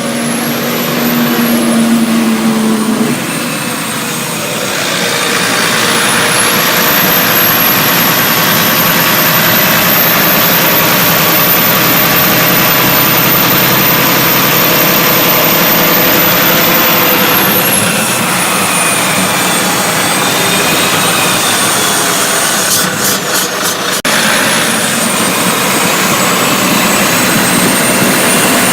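Volvo D13 diesel engine of a Prevost coach running under way on a test drive, steady and loud. A thin high whistle rises about six seconds in, holds, and falls away again around eighteen seconds.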